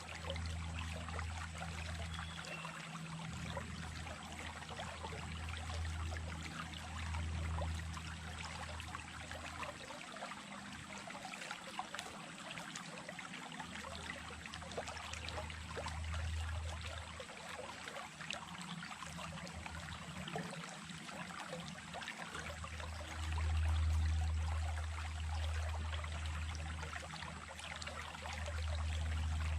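Small stream running steadily, a continuous babble of trickles and small splashes, under a low rumble that fades and returns and swells about three-quarters of the way through.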